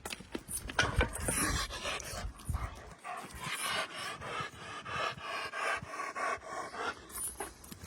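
A dog panting quickly and steadily, several breaths a second.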